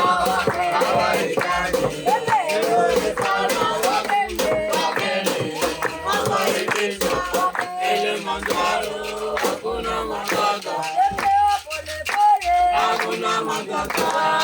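Singing voices over a rhythmic percussive beat: a song.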